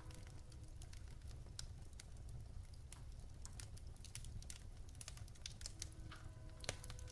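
Wood fire crackling in a fireplace: irregular sharp pops and snaps of burning logs over a low steady rumble.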